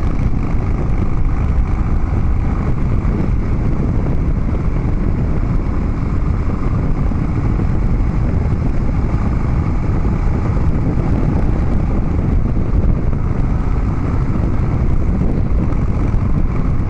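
Harley-Davidson Dyna Street Bob's V-twin engine running through Vance & Hines Big Radius 2-into-2 exhaust pipes at a steady cruise, with no marked revving or shifting.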